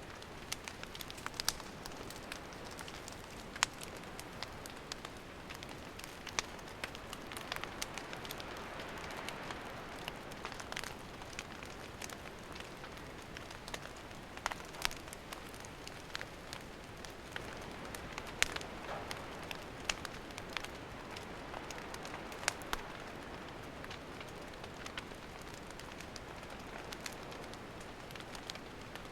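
Wood campfire burning: a soft steady hiss with frequent irregular sharp crackles and pops.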